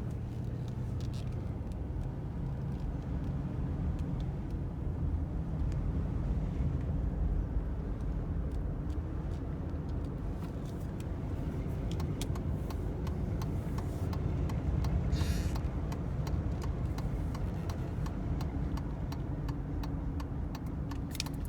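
Mercedes 500SL's M119 five-litre V8 running while the car is driven gently, heard from inside the cabin as a steady low drone of engine and road noise, with a few brief clicks in the second half.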